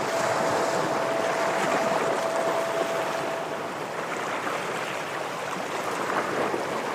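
Ocean waves washing against shoreline rocks as a continuous surging hiss that swells in the first couple of seconds and then eases. A steady thin tone runs alongside until about halfway through, then stops.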